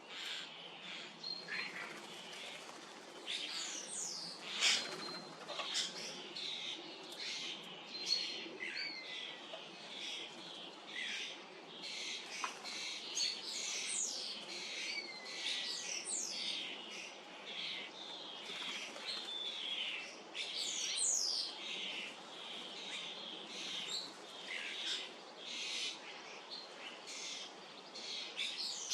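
Common starlings calling in a busy, continuous jumble of chirps, clicks and sharp whistles, many of them falling in pitch.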